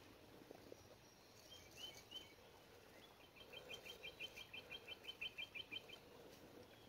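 Faint bird song over near silence: a few short high chirps, then about three seconds of a quick, even trill of repeated notes, roughly six a second.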